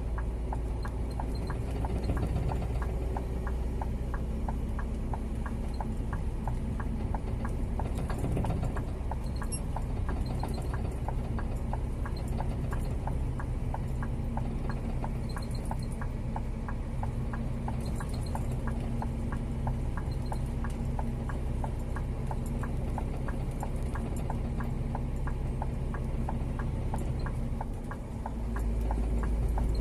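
Scania G410 truck's diesel engine running steadily, heard inside the cab as a low drone, with a fast, even ticking through it. The engine note dips briefly near the end, then picks up again.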